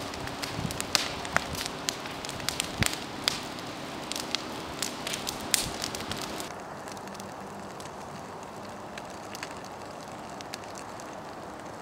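Large campfire of dry brush and branches crackling, with frequent sharp pops over a steady hiss. About six seconds in the hiss drops and the pops become sparse.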